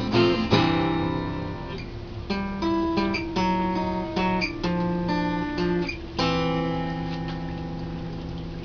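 Acoustic guitar playing a country-blues ending: a couple of strummed chords, a run of single picked notes, then a final chord struck about six seconds in and left to ring and fade.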